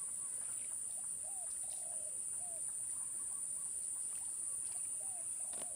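Outdoor ambience of a steady high-pitched insect drone, with a scattering of short, soft, arched calls.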